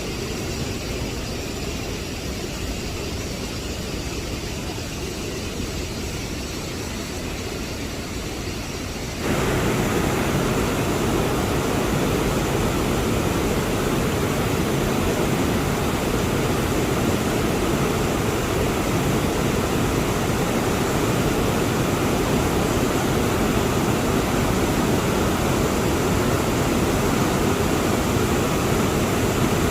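Steady rush of falling water from a waterfall in a gorge, which turns suddenly louder and fuller about nine seconds in.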